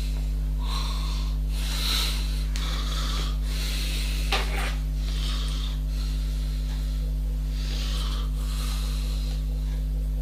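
Steady low electrical hum, with soft rushing noises coming and going about once a second and a sharp click about four seconds in.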